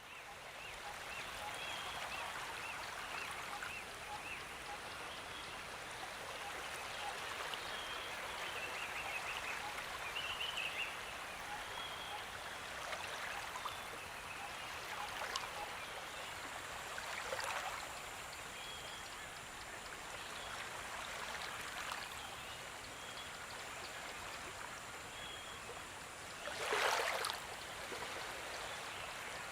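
A stream or brook running steadily, with faint short high chirps now and then and a brief louder swell near the end.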